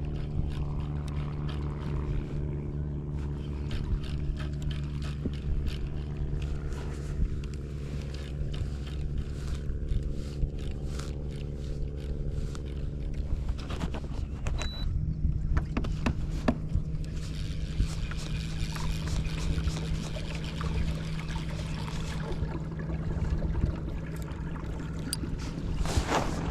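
A small boat's motor running at a steady hum, with water splashing and small knocks and scrapes against the hull.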